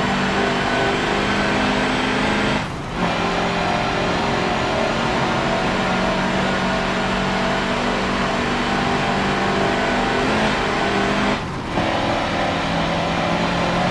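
Mercedes-Benz racing truck's diesel engine running hard under load, with two brief drops in sound for gear changes, about three seconds in and again about eleven seconds in.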